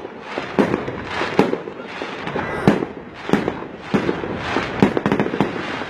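Aerial fireworks shells bursting: a run of sharp bangs at irregular intervals, some close together, each followed by a brief crackle and echo.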